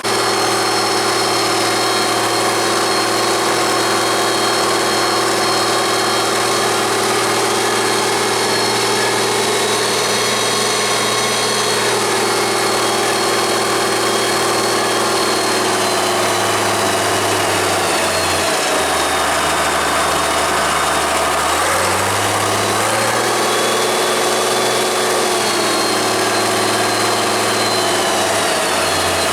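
1966 International Farmall 806 tractor engine idling steadily, freshly filled with straight 30-weight oil and running smooth. Its low hum shifts pitch a few times in the second half.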